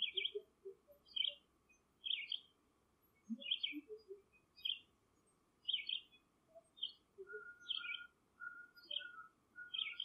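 A bird chirping, with short high chirps repeating about once a second, about ten in all. Faint lower squeaks come in between, and a thin, quieter whistled note joins in the later part.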